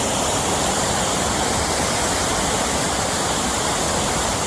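A large waterfall pouring down nearby: a loud, steady rush of falling water.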